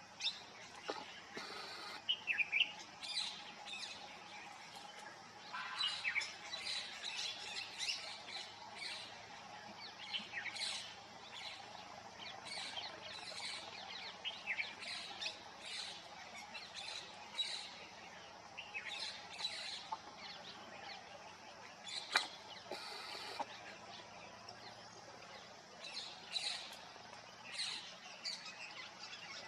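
Plum-headed parakeets calling: a flock giving many short, high-pitched chirping and squawking calls in irregular clusters throughout. A single sharp click about three quarters of the way through.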